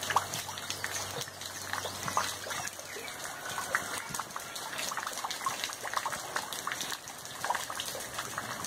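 Steady rain falling on a waterlogged yard, drops splashing into standing puddles.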